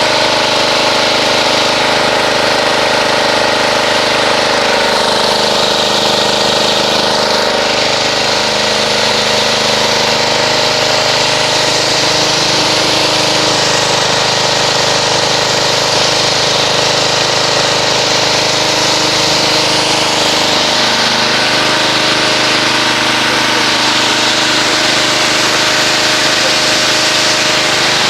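Pressure washer running steadily, its motor drone under the hiss of the water spray as foam is rinsed off a car.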